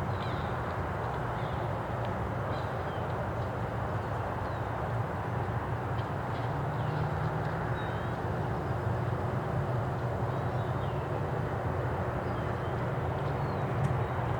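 Steady rumble of distant traffic, with faint short bird chirps now and then.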